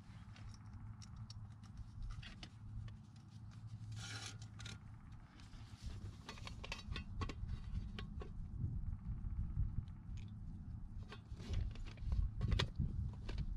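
Light metal clinks and scrapes of Trangia stove parts being handled, coming in scattered clusters, over a steady low rumble.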